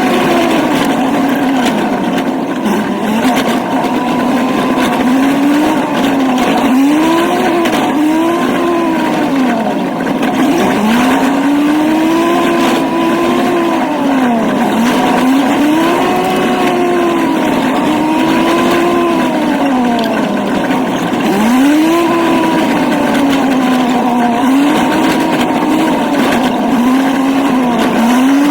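Old truck's engine running while driving, heard from the cab, its pitch rising and falling over and over every couple of seconds as the revs go up and down.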